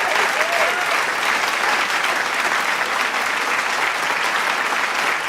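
A large crowd applauding and cheering, a dense steady clapping with a few whoops or whistles about half a second in.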